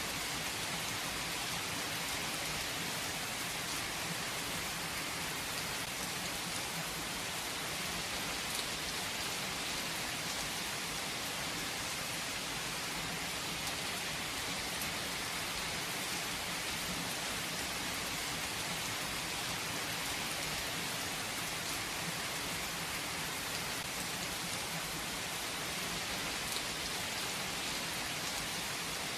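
Steady rain falling, an even hiss of rainfall with occasional faint individual drop ticks.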